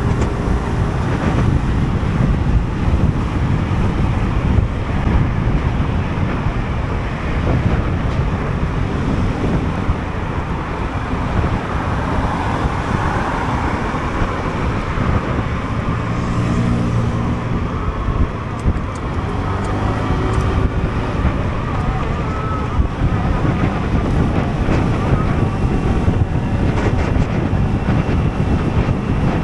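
Riding noise from a Sym Jet X 125 scooter in traffic: wind buffeting the action camera's microphone over the single-cylinder scooter engine and surrounding road traffic. A steadier engine drone rises out of the noise for a couple of seconds about halfway through.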